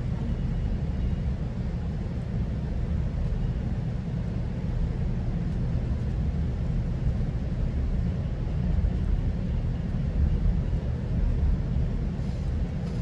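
Steady low rumble of a GO Transit commuter train heard from inside the coach while it travels along the track.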